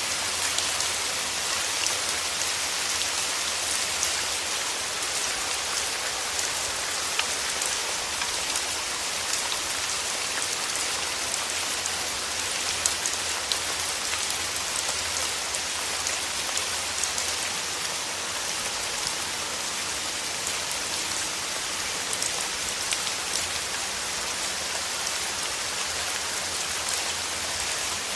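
Steady rain falling, an even hiss sprinkled with fine drop ticks.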